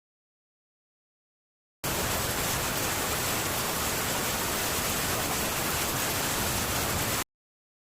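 Steady, dense rain on a metal tin roof, heard as an even hiss. It cuts in abruptly about two seconds in and cuts off abruptly near the end, with dead silence on either side.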